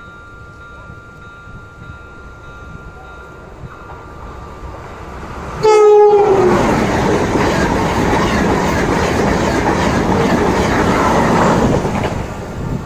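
Level crossing warning buzzers hold two steady tones. About six seconds in, a Renfe Class 130 train gives a short horn blast, then passes close by with a loud rumble of wheels on the rails, which fades near the end.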